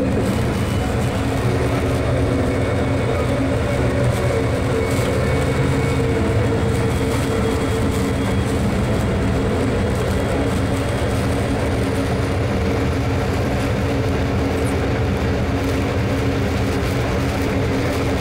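Amtrak Empire Builder passenger train running along the track, heard from inside the car: a steady low rumble with a steady hum over it.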